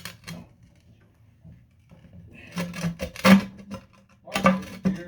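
Rubbing, rustling and light knocking of small objects being handled on a workbench, in two short bouts in the second half.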